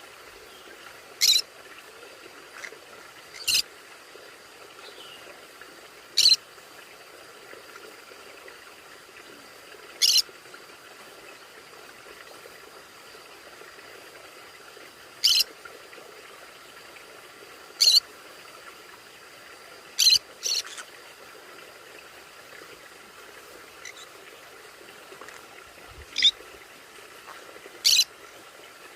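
Conure giving short, sharp single calls, about ten of them, a few seconds apart, with two in quick succession around two-thirds of the way through. A faint steady hum lies underneath.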